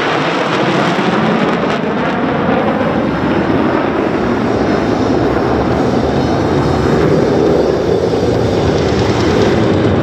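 Loud, steady jet roar from USAF Thunderbirds F-16 Fighting Falcons flying their display. The roar swells slightly toward the end.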